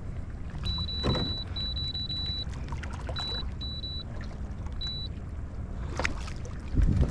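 Wind and water noise on a kayak, with a high electronic beep sounding over and over in short and longer pulses for the first five seconds. A few sharp knocks come near the end.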